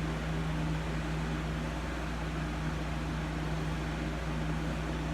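Steady machine hum with one constant low tone and a soft hiss over it, unchanging throughout.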